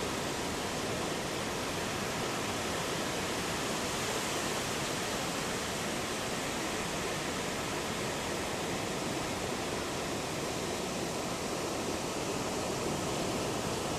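Heavy ocean surf making a steady, even rush of noise with no single wave crash standing out.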